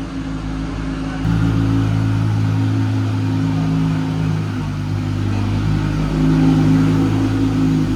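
A vehicle engine running, stepping up in revs about a second in and then holding a steady drone.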